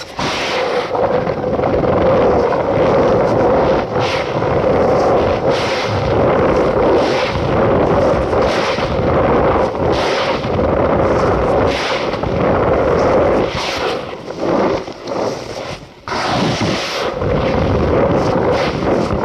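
Cornstarch powder being squeezed and crushed close to the microphone: a dense, squeaky crunching, pressed again about every second or so.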